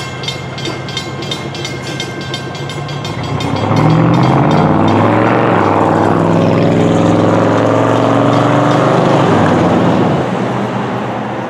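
Passenger train pulled by a diesel locomotive rolling away, its wheels clicking over rail joints about four times a second. About four seconds in, the locomotive horn sounds one long blast of several notes for about six seconds, then cuts off, leaving the train's rumble.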